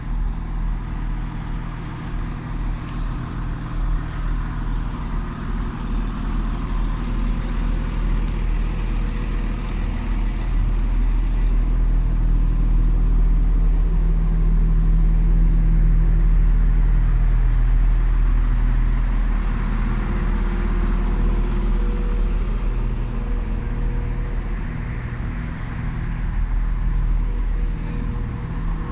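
Diesel train engine running with a steady low drone. It grows louder in the middle and then eases off a little.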